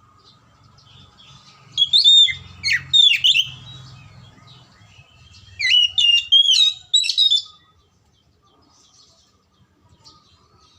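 Oriental magpie-robin (kacer) singing: two bursts of quick, high, rapidly varied whistled phrases, the first about two seconds in and the second about six seconds in.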